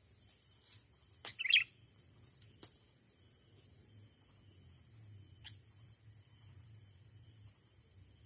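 Steady high-pitched drone of insects, with one short, loud bird chirp about a second and a half in and a fainter call at about five and a half seconds.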